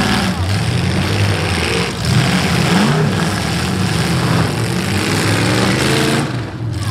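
Several V8 demolition derby cars' engines revving hard together, the pitch rising and falling as the drivers push and ram each other. The loudness dips briefly near the end.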